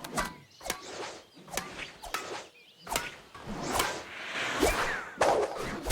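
Cartoon sound effects: a quick run of swishes and sharp hits, building to a louder rushing swell near the end.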